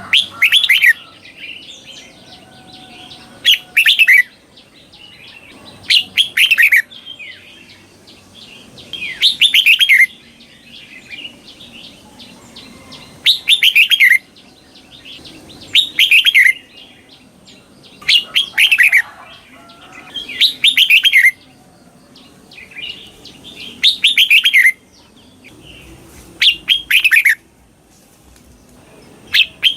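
Red-whiskered bulbul singing loud, short phrases of rapid warbling notes, one every two to three seconds.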